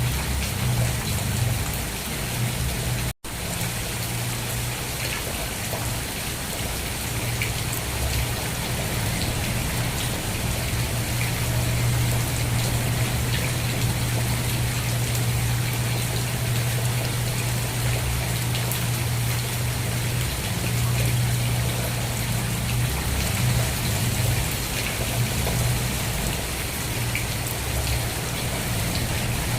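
Steady rainfall, an even hiss of falling rain with scattered drop ticks over a steady low rumble. The sound cuts out for an instant about three seconds in.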